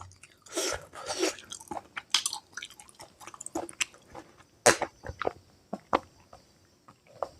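Close-miked chewing and mouth sounds of someone eating pork curry and rice: irregular short clicks and smacks, the sharpest one a little past the middle.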